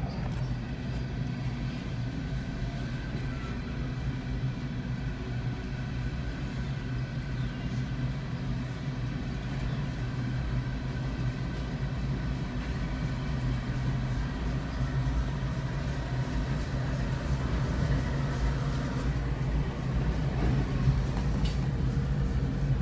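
Loaded coal hopper cars rolling past on the rails in a steady rumble, heard from inside a car. Diesel locomotive engines grow louder over the last several seconds as mid-train locomotives come alongside.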